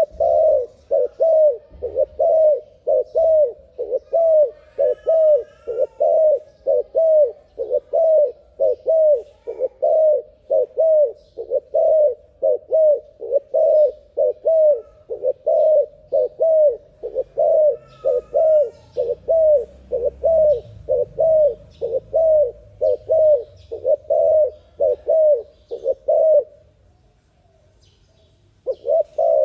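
Spotted dove (terkukur) cooing in a fast, even series of short notes, about two a second. The series breaks off about 26 seconds in and starts again near the end, with a few faint chirps of other birds in the background.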